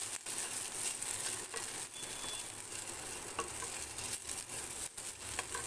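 Diced brinjal and neem leaves sizzling in oil in a kadai as a wooden spatula stirs and tosses them, with a steady hiss and occasional light knocks of the spatula against the pan.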